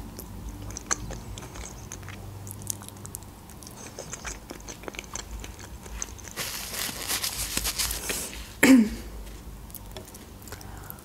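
Close-miked eating sounds of a person nibbling and chewing fish: small wet clicks and soft crunches. There is a denser, louder stretch of chewing around six to eight seconds, and a short loud mouth sound, a gulp or hum, near nine seconds.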